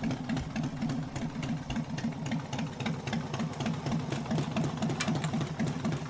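Motorcycle engine idling steadily with an even, pulsing beat.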